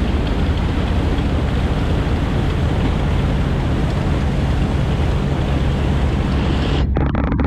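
Martin Mars flying boat's Wright R-3350 18-cylinder radial engines running steadily as it taxis, a deep drone mixed with wind noise on the microphone. The higher part of the sound briefly thins out near the end.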